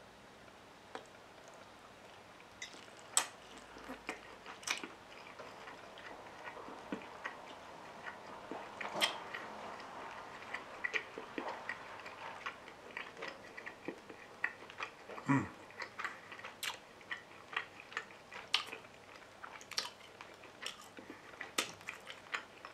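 A person chewing slices of sauteed pork: soft, irregular mouth clicks and smacks that come more often after the first couple of seconds.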